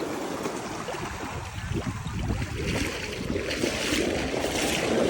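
Ocean surf washing in the shallows, with wind rumbling on the microphone; the wash of the water grows louder towards the end.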